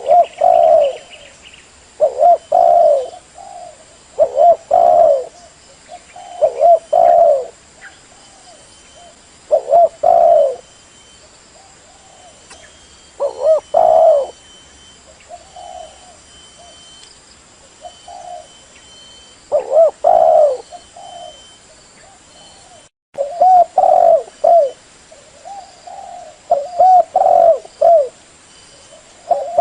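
Female spotted dove cooing in short phrases repeated every two to three seconds, the call used to stir up a male decoy dove. There is a momentary dropout partway through.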